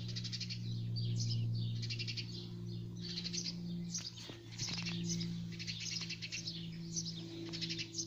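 Small bird chirping in quick, rattling runs of high notes, each run lasting about a second, several times over, most likely the begging calls of a fledgling songbird. A steady low hum runs underneath.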